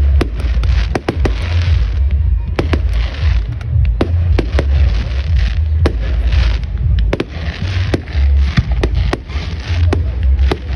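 Fireworks going off in a rapid, irregular barrage of sharp cracks and bangs, several a second, with hissing between them over a continuous deep rumble.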